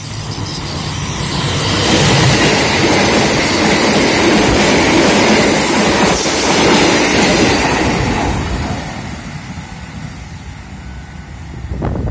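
Locomotive-hauled passenger train passing close by at high speed. A loud rush of wheel and track noise builds over the first two seconds, holds while the carriages go by, and fades away after about eight seconds.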